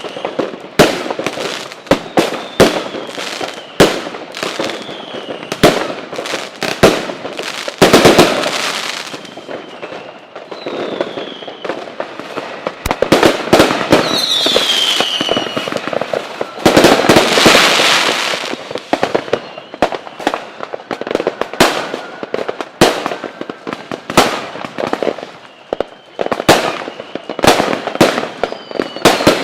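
Fireworks display: a rapid, irregular barrage of loud bangs from bursting shells, with a few whistles falling in pitch and a stretch of dense hissing near the middle.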